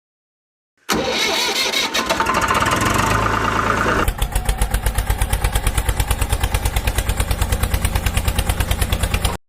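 Tractor engine starting, then idling with a steady chugging beat of about eight pulses a second. It cuts off abruptly.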